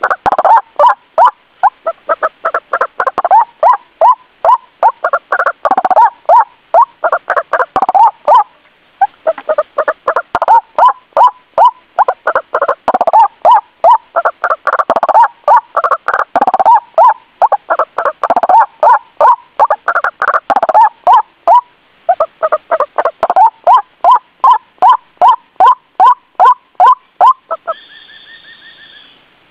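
White-breasted waterhen (ruak-ruak) calling loudly in a long run of repeated notes, about three a second, with a couple of brief breaks. This is a bird-lure call track. Near the end the calling gives way to a steady high tone lasting about a second and a half.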